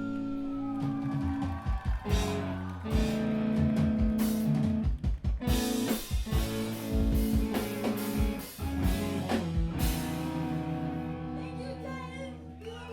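Live screamo band with distorted electric guitars, bass and drum kit playing. About ten seconds in the drums stop and the guitar chords are left ringing out and fading.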